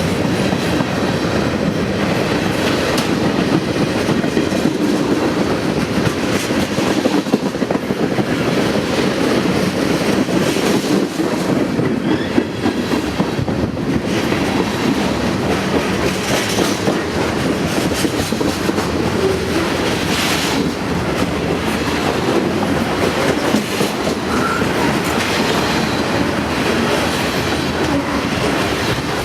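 A train passing steadily, its railroad cars rolling by with wheels clacking over the rail joints.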